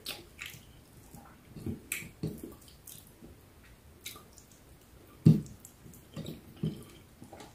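Close-up eating sounds of a person chewing ripe mango and rice eaten by hand: wet mouth clicks and lip smacks, short and scattered. The loudest comes about five seconds in.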